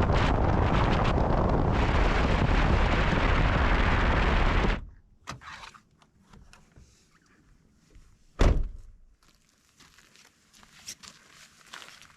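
Strong wind buffeting the microphone, cutting off suddenly about five seconds in. Then quiet, with a few faint knocks and one loud thump about eight seconds in.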